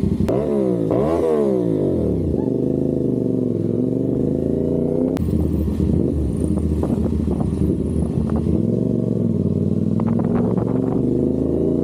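CFMOTO 450SR's parallel-twin engine pulling away, its pitch rising and falling twice in quick succession in the first two seconds as it goes up through the gears. It then runs at steady cruising revs with only small changes in pitch.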